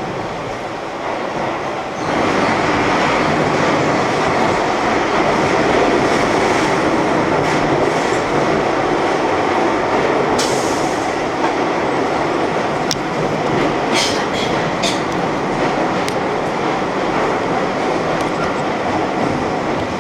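Keihan electric train running, heard from inside the front car: a steady rumble of wheels and motors that gets louder about two seconds in, with a few sharp high clicks or squeaks from the wheels and rails later on.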